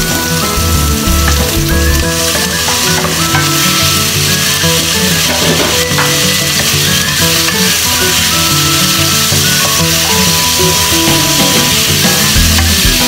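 Onion, garlic, tomato and raw chicken pieces sizzling in hot oil in a wok, stirred now and then with a wooden spatula. Background music plays underneath.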